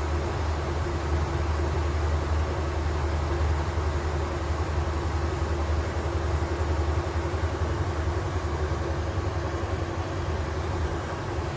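Swiss passenger train running: a steady, even low rumble with a constant hum above it.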